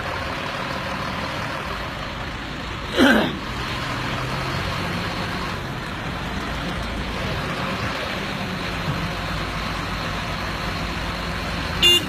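Heavy truck engine running steadily under load while towing a truck stuck in mud. About three seconds in, a short loud sound falls steeply in pitch, and another brief loud sound comes near the end.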